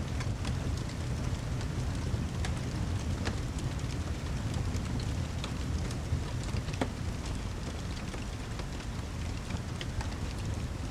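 Steady heavy rain with a deep, low rumble underneath and scattered sharp clicks throughout.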